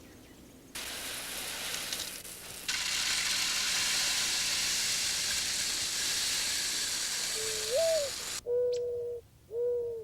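A steady rushing hiss stops sharply near the end. A dove's cooing song follows: one note that swoops up and falls, then three long, even hoos, the pattern of a mourning dove's song.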